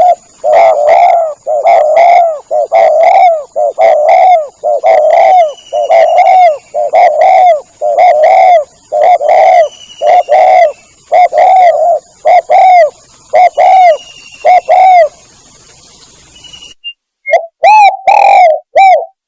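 Spotted dove (tekukur) cooing loudly, a long run of repeated coo notes about one a second, pausing about fifteen seconds in and then resuming with a few more coos near the end; this is a recorded lure call for drawing doves in. Faint higher chirps of another bird sound behind it.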